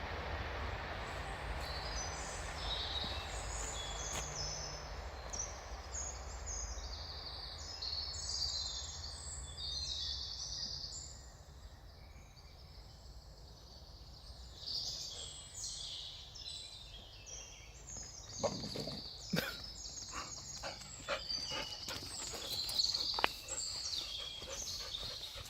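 Woodland birds singing and chirping throughout, over a low rumble that fades out about eleven seconds in. In the last several seconds, short sharp clicks and rustles come from close by.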